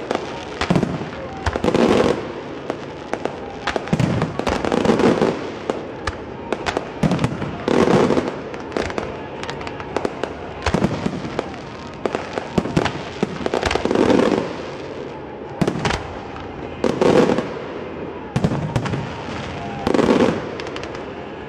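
Aerial fireworks shells bursting: a loud boom about every three seconds, with crackling and smaller pops filling the gaps between them.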